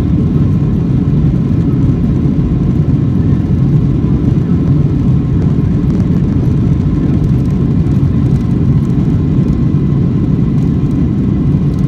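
Airliner jet engines and airflow heard from inside the passenger cabin during takeoff: a loud, steady, low rumble with no changes.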